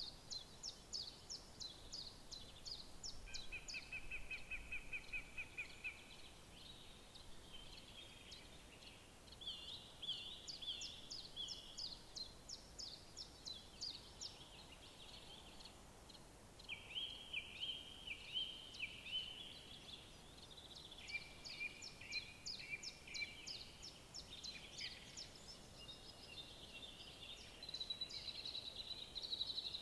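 Several songbirds singing at once: fast strings of short, high repeated notes alternating with lower trills, one phrase after another, over a faint steady background hiss.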